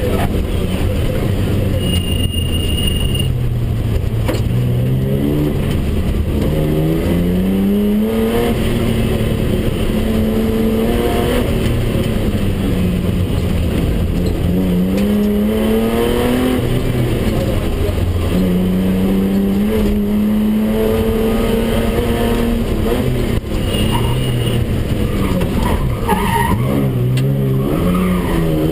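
BMW 320/6's straight-six engine heard from inside the cabin, driven hard: it revs up through the gears, drops at each shift and on lifting off, and climbs again, over and over. A brief high electronic tone sounds twice, about two seconds in and near the end.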